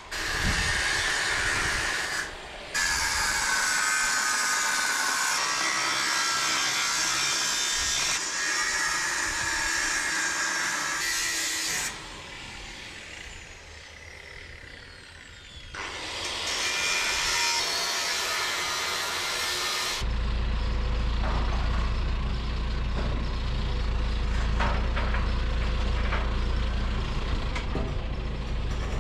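Demolition of an old timber-and-iron dairy shed: wood and metal scraping and cracking, heard in several short shots cut together. From about two-thirds of the way through, a steady low engine drone from heavy machinery runs under it.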